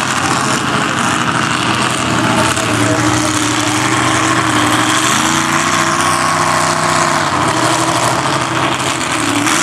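Mud-bog truck engine running steadily at a low, even pitch, picking up a little about halfway through.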